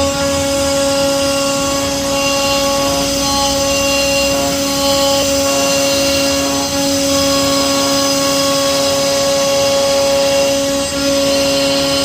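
CNC router spindle running with a steady high whine and a hiss of cutting, holding the same pitch throughout.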